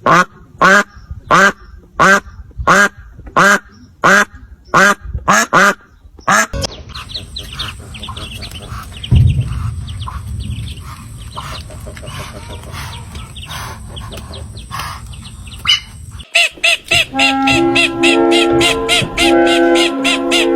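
Duck quacking: a quick series of about eleven loud quacks, evenly spaced, followed by a quieter noisy stretch with fainter calls. Music with steady notes starts about three-quarters of the way through.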